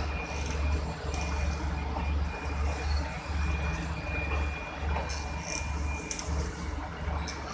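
Stainless-steel passenger coaches of an express train rolling slowly past at close range as it departs, a low rumble that pulses about every 0.7 seconds, with a faint steady high tone and a few short high squeaks.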